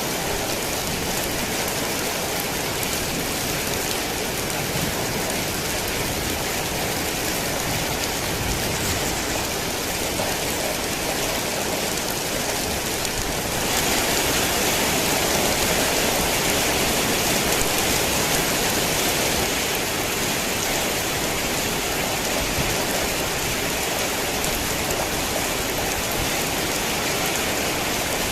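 Rain falling steadily in a dense, even hiss of drops. About halfway through the downpour grows a little louder for several seconds, then eases back slightly.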